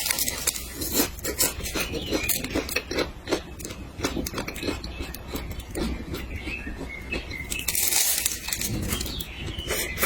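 Close-miked eating sounds: irregular chewing with many small mouth clicks, and a louder, hissy stretch about eight seconds in.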